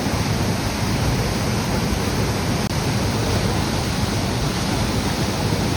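Waterfall rushing in a steady, even roar of falling water, cutting out for an instant about halfway through.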